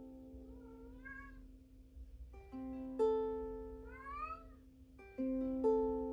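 Ukulele strummed slowly, a chord every few seconds, each chord two quick strokes left ringing. Between the chords a cat meows twice, each meow rising in pitch.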